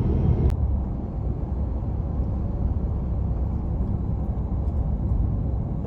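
Steady road and engine noise of a car driving at speed, heard from inside the cabin as a low, even rumble.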